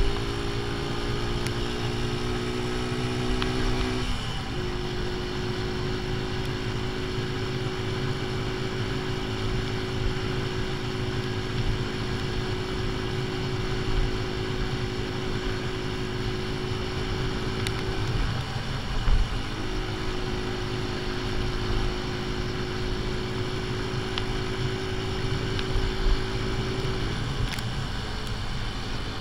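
AJS Tempest Scrambler's 125 cc single-cylinder four-stroke engine pulling at a steady road speed, its ignition timing set half advanced; the engine note holds one pitch for long stretches and breaks off briefly three times. Wind rumbles on the microphone underneath.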